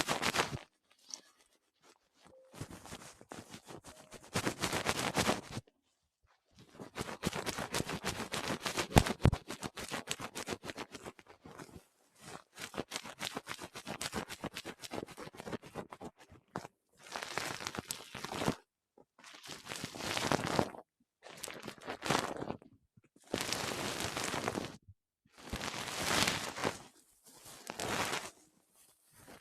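Close-up crinkly rustling, full of fine crackles: a long unbroken run for the first half, then short bursts of a second or two with brief pauses between them.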